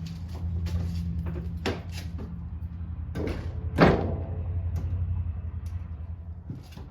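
Metal clanks and knocks as a steel snowplow blade and its mount are shifted to line up the pin holes, the loudest a sharp clank a little before the middle. A steady low engine-like hum runs underneath.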